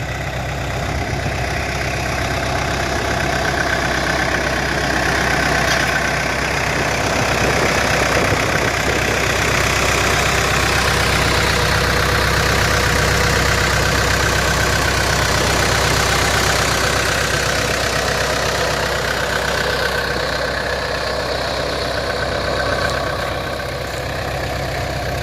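Case 75XT skid steer's diesel engine running steadily, getting a little louder a few seconds in and easing off near the end.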